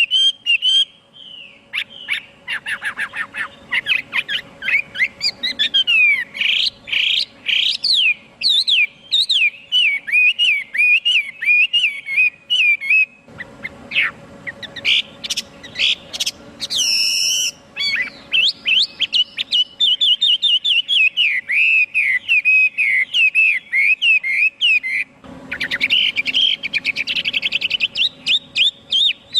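Chinese hwamei singing a long, rapid run of varied whistled phrases, with quick rising and falling notes. The song breaks off briefly just after halfway, then resumes.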